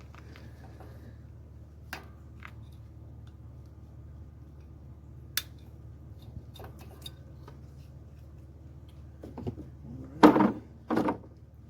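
Hand tools being handled: a few sharp clicks and snips as wire cutters cut a zip tie, then two louder clattering bursts near the end, over a steady low hum.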